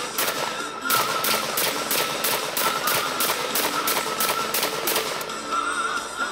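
Saiga 12 semi-automatic shotgun fired in rapid succession, about four shots a second, the firing stopping about five seconds in. Background music plays throughout.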